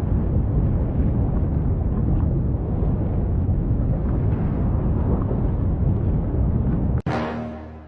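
Deep, steady rumbling roar of a volcanic eruption, which cuts off suddenly about seven seconds in. A loud musical chord is then struck and fades away.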